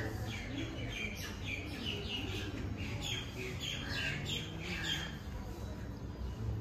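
Several birds calling together, a busy run of short chirps and squawks.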